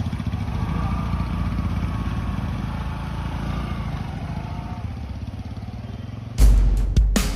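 Motorcycle engine running steadily, a low rapid pulsing. About six seconds in, loud music with heavy drum beats cuts in over it.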